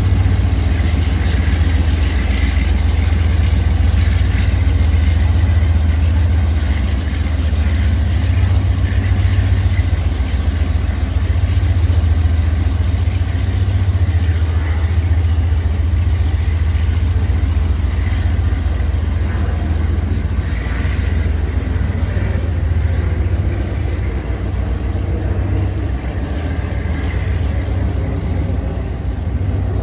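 Diesel locomotive engine running steadily: a loud, deep, even rumble that holds for the whole stretch.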